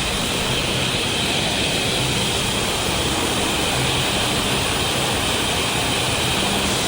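Waterfall running: a steady, even rush of falling water, with a steady high-pitched buzz over it that stops shortly before the end.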